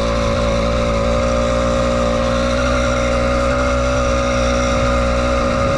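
80cc two-stroke bicycle engine running at a steady speed, a constant high-pitched buzz that holds its pitch throughout.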